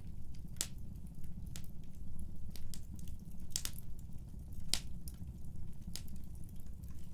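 Wood fire burning in a fireplace: a steady low rumble of flame with sharp crackling pops about once a second, the loudest near the middle.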